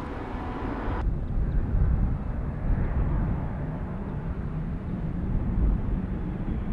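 Boeing 737 MAX 8 airliner arriving: a low, rumbling jet engine noise. In the first second, a different airliner's engine whine with steady tones cuts off abruptly.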